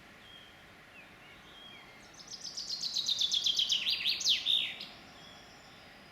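A songbird sings one loud phrase about two seconds in: a quick run of notes falling steadily in pitch and growing louder, ending in a short flourish of sharp downward notes. Other birds call faintly over a steady background hiss.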